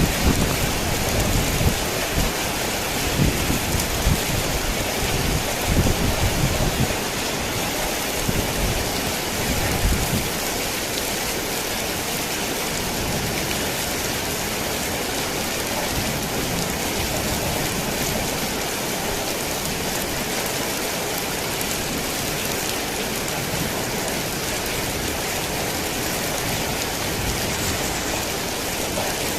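Heavy rain falling on a tin roof, a steady hiss. Thunder rumbles low and unevenly through roughly the first ten seconds, then fades, leaving the rain alone.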